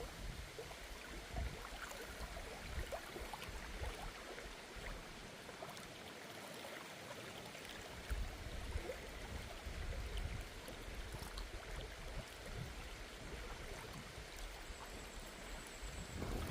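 Flowing river water: a steady rushing hiss with small scattered splashes, under an uneven low rumble.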